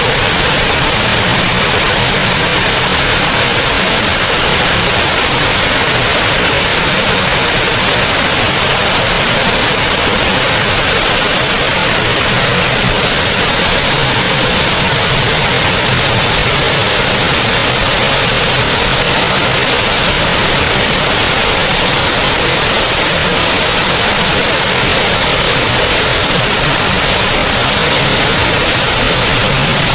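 Small forest waterfall: a loud, steady rush of falling and splashing water.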